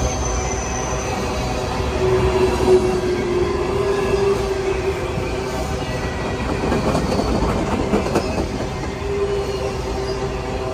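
Empty grain hopper cars rolling past on the rails: a steady rumble of wheels on track with a thin wheel squeal held through it, and a run of clacks over rail joints about seven seconds in.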